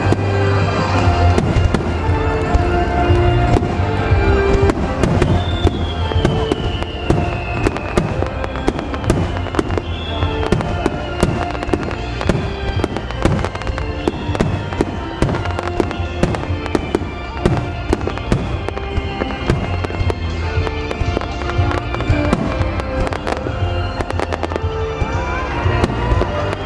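Starmine fireworks display: a dense, continuous run of shell bursts, bangs and crackles, over music played through the loudspeakers. Through the middle, a series of falling whistling tones repeats about every second and a half.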